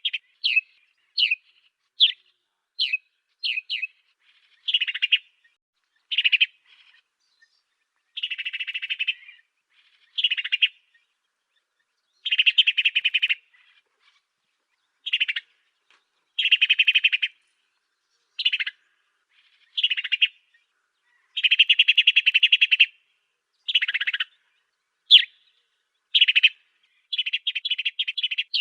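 African sparrow chirping: quick runs of sharp single chirps and denser, buzzy chirp bursts lasting about a second each, with short pauses between phrases.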